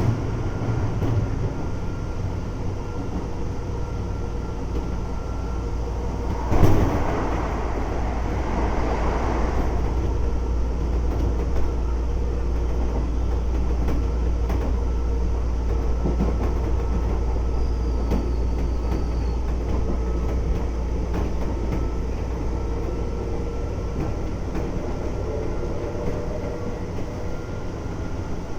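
Keisei 3400 series electric train running at speed, heard from inside the car: a steady low rumble of wheels on rail with a faint steady whine from the field-chopper traction equipment. About six and a half seconds in there is a short, loud rush of noise.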